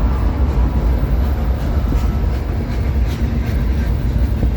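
Double-stack intermodal freight train rolling past at close range: a steady, loud rumble of wheels on the rails.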